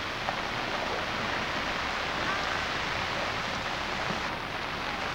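Steady rain falling on a flooded street, an even, constant hiss of water.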